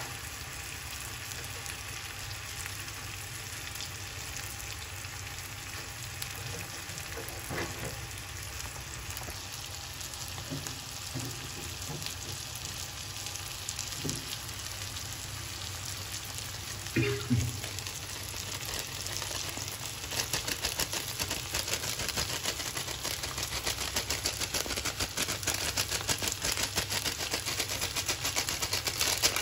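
Chicken pieces and sliced onions frying in oil in a kadai, a steady sizzle with a few sharp knocks of a metal spatula against the pan, the loudest about two-thirds of the way in. Shortly after that the frying grows louder, with rapid crackling and spitting.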